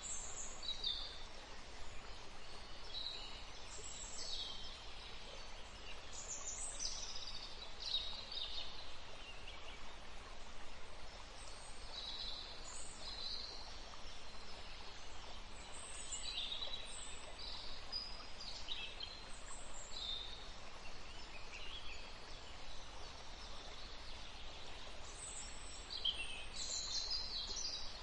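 Outdoor ambience: small birds chirping, with many short, high calls scattered throughout over a steady background hiss.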